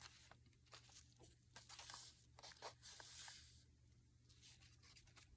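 Faint rustling and crinkling of paper as the pages of a handmade junk journal are handled and turned: scattered light crackles, with one longer rustle about two to three seconds in.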